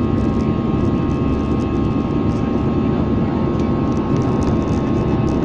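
Passenger aircraft's jet engines running, a steady loud drone with a few constant whining tones held over it, unchanging throughout.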